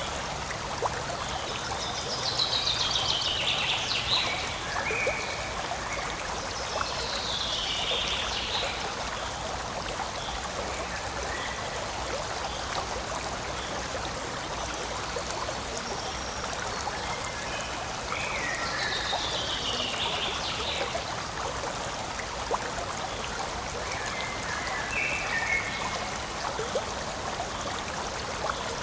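Forest stream babbling steadily over rocks. A small bird sings a short phrase that falls in pitch, four times.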